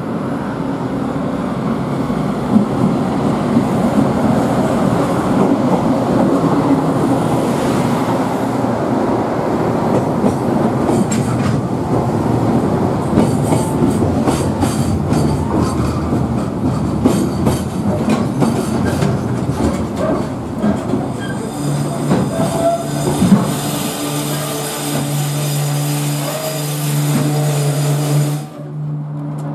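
A container freight train hauled by an EF510 electric locomotive passing close by: a loud, steady rumble of wagons with repeated clicking of wheels over rail joints. A steady low hum joins in about three-quarters of the way through, and the sound drops off suddenly near the end.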